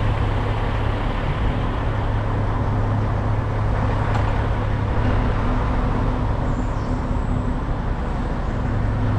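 Semi-truck diesel engine running steadily, a continuous low hum with no change in pitch.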